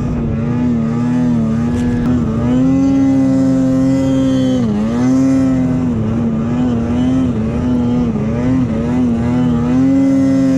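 Snowmobile engine running hard under throttle, its pitch wavering up and down, with a sharp dip as the throttle is let off and picked up again about halfway through.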